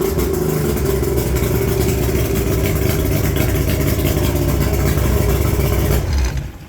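1987 Mercury 80 hp inline three-cylinder oil-injected two-stroke outboard running steadily, then shut off about six seconds in.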